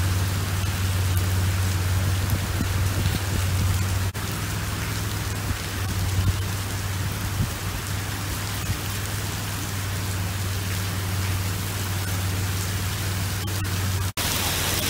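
Torrential rain mixed with hail pelting flooded pavement and puddles: a dense, steady hiss of splashing with a constant low hum underneath. The sound cuts out for an instant twice.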